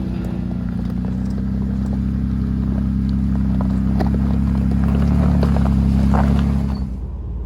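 Vehicle engine running steadily on a dirt road, with scattered clicks and knocks from gravel and rattles. It fades out about seven seconds in.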